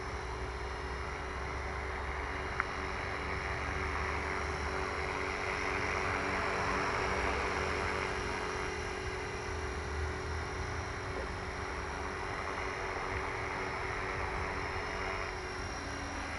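The repaired X3V radio-controlled model hovering, its motors and rotors whirring steadily with a constant tone, swelling a little in the middle. A single sharp click sounds a few seconds in.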